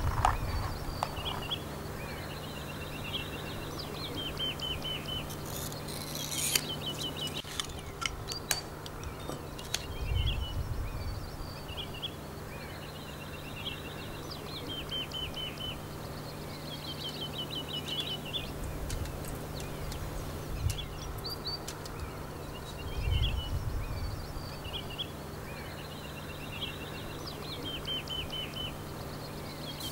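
Small songbirds chirping, with quick trilled phrases repeating every few seconds, over a steady low hum and a few soft low rumbles.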